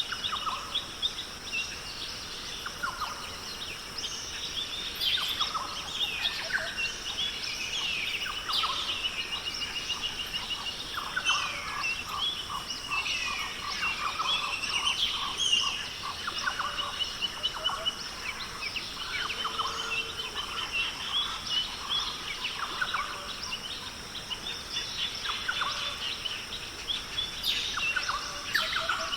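A chorus of several birds calling and singing at once: short chirps, whistled rising and falling notes and rapid repeated trills, over a steady high-pitched background hum.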